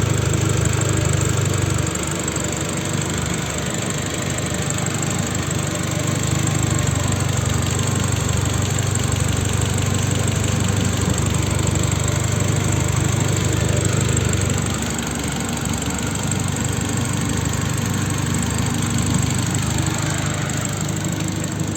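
Fiat Bravo mk2 1.4 turbo petrol inline-four engine (198A1000) running steadily. Its level drops slightly about two seconds in and again near fifteen seconds.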